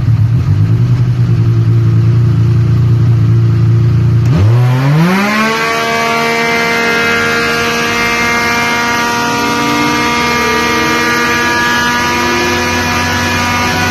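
Textron Wildcat XX side-by-side engine breathing through a full aftermarket exhaust on a dyno: it runs low and steady, then about four seconds in the throttle opens and the revs climb quickly, then hold nearly steady at high rpm for the rest of the pull.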